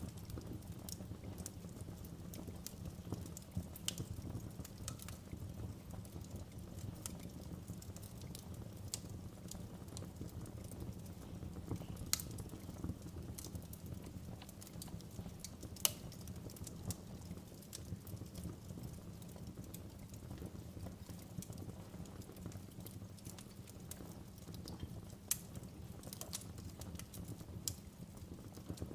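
Wood fire burning in a fireplace: a steady low rumble with irregular crackles and pops, the sharpest one about sixteen seconds in.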